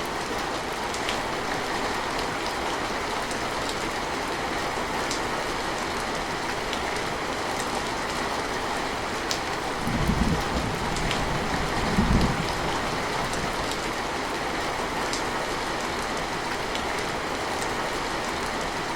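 Steady rain falling, with scattered sharp drip ticks over the even patter. Two short, low rumbles of distant thunder come about halfway through.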